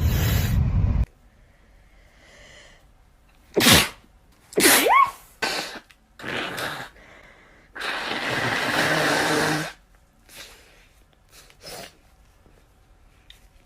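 A girl sneezing several times, with the two loudest sneezes coming close together about four seconds in. Shorter bursts follow, and a longer rush of noise comes about eight seconds in.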